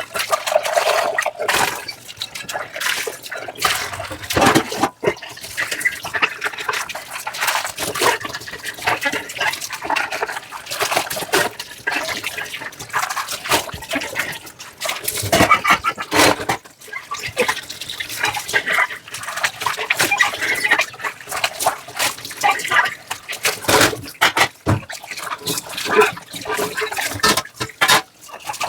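Dishes being hand-washed in a sink: water splashing and running while a sponge scrubs, with frequent small knocks and clatters in an irregular run.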